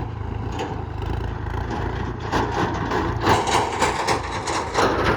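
Backhoe loader's diesel engine running steadily, joined about two seconds in by a dense, loud crackling clatter.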